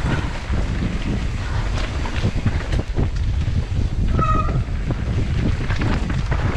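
Wind buffeting the camera microphone during a fast mountain-bike descent, with the bike rattling and knocking over rough trail. A brief high squeal about four seconds in.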